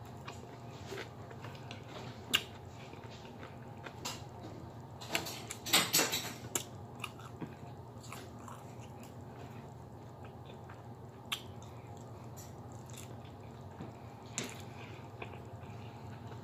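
Close-up eating sounds: chewing and mouth smacks, with light clicks of a plastic fork against the plate. There is a burst of louder smacks and clicks about five to six seconds in, over a steady low hum.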